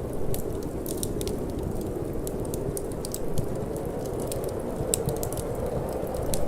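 Wood fire crackling, with frequent irregular sharp pops and snaps over a steady low rushing of cold wind.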